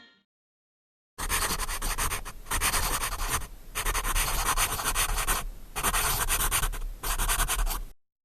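Loud scratchy rubbing and rustling noise with a deep rumble underneath, like something brushing against the microphone, in four stretches broken by brief dips, starting about a second in and cutting off abruptly near the end.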